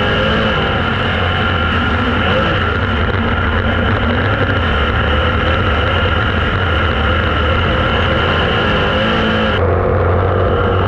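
Dirt-track Super Late Model race car engines running steadily at speed, loud and unbroken. Near the end the higher part of the sound drops out abruptly.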